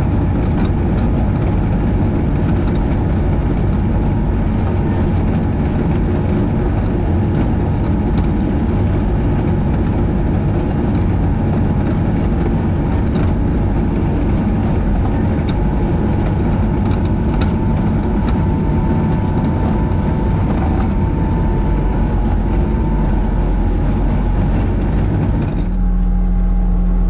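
Skid steer engine running steadily under load while working a grader attachment through a gravel driveway, with a faint steady whine above the engine. Near the end the sound changes abruptly to a duller, steadier engine drone.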